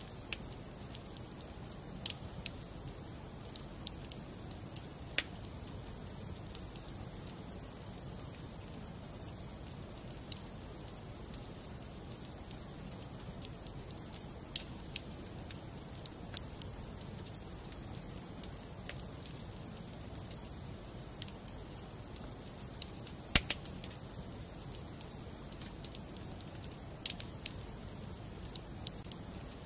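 Wood fire burning in a fireplace: a steady low rush of flames with irregular crackles and pops of burning logs, one pop louder than the rest a little over three quarters of the way through.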